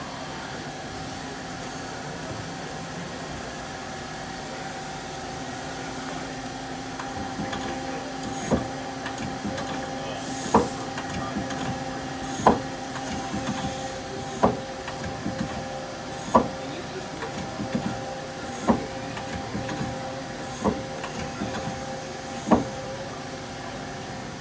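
1998 Mazak Quick Turn 30 CNC lathe running with a steady hum. About a third of the way in, sharp clunks start and repeat roughly every two seconds, eight in all.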